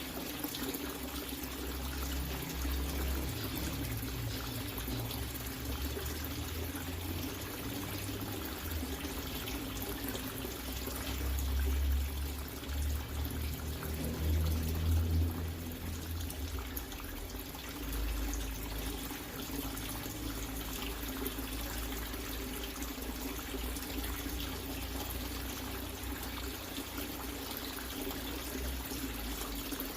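Water running and pouring steadily, with a low steady hum underneath and some low rumbling bumps around the middle.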